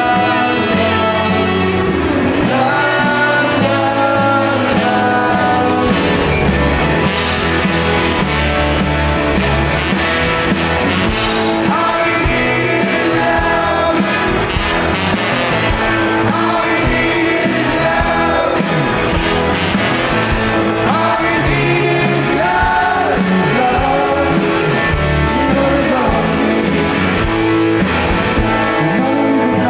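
Live rock band playing a song with a singer's voice over the band.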